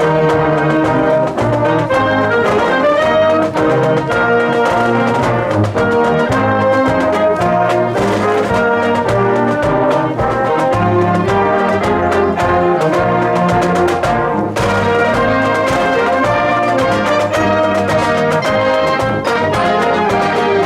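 A marching band playing: trumpets, trombones and other brass carrying the tune together over a steady drum beat.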